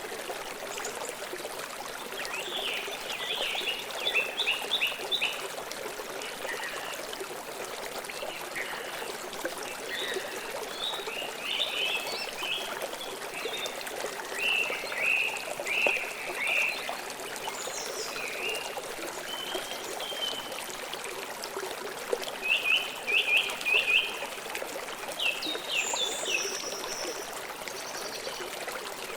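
Stream water flowing steadily, with birds chirping over it in short rapid clusters of high notes, loudest a few seconds in, in the middle and again past two-thirds of the way through.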